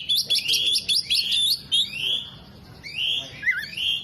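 Oriental magpie-robin singing: a rapid run of sharp chirps and whistles, then a few longer sliding whistles.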